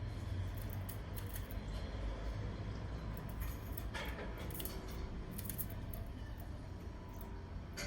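Canary pecking and cracking seeds: small, sharp, irregular clicks, denser in the second half, over a steady low hum.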